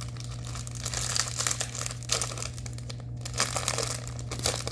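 Small plastic bags of diamond painting drills crinkling as they are handled, in irregular bursts.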